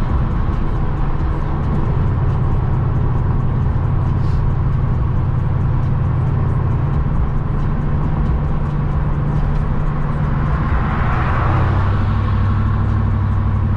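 Chevy C10 square-body pickup cruising on the highway: a steady low engine drone with road noise. A rushing sound swells and fades about eleven seconds in.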